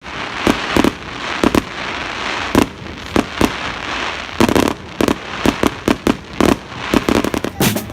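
Fireworks going off: a run of irregular bangs and crackling pops, over a steady background hiss, getting denser near the end.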